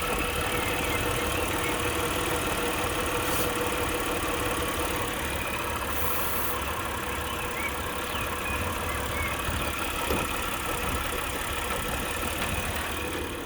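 Mitsubishi Pajero V6 engine idling steadily while spray is worked around the intake manifold, with a short hiss about six seconds in. The idle shakes where the spray is drawn in, which the owner takes for a leaking intake manifold.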